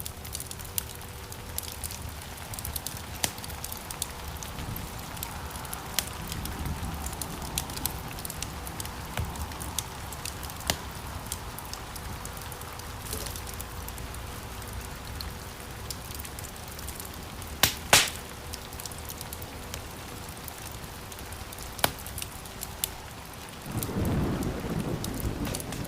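Wood fire burning in a fireplace: a steady low rustle of flame with scattered sharp crackles and pops from the burning logs. A loud double pop comes about 18 seconds in, and near the end the fire swells into a louder low rushing.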